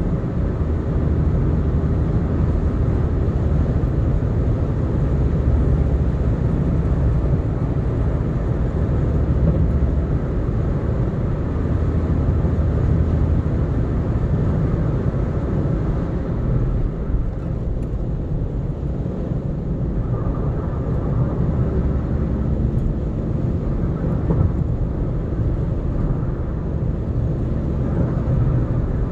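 A car driving at speed on a highway: a steady low engine hum and tyre and road rumble, heard from inside the moving car.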